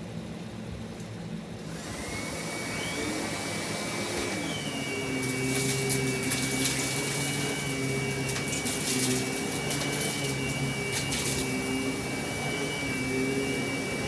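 Kenmore canister vacuum switched on: its motor comes up to speed about two seconds in and settles into a steady high whine over a rushing hiss. From about five seconds in there are scattered crackles and clicks over the running motor.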